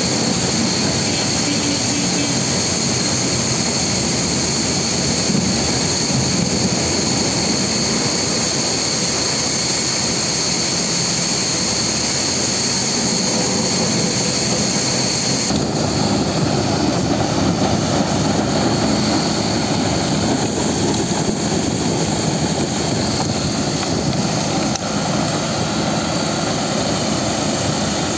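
Wood chipper running steadily as it processes forest waste. A high steady whine drops out about halfway through, leaving the lower machine noise.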